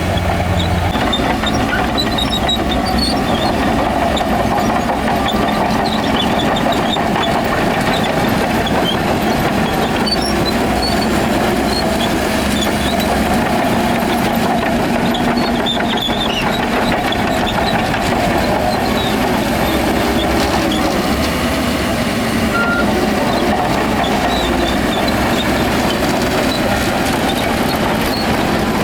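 Heavy diesel earthmoving machinery, a crawler bulldozer and dump trucks, running steadily and loudly with no break.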